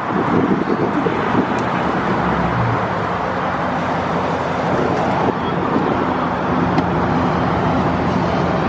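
Dodge Charger Scat Pack's 392 (6.4-litre) Hemi V8 running loud and steady while driving, through a straight-piped exhaust with gutted catalytic converters, over road noise.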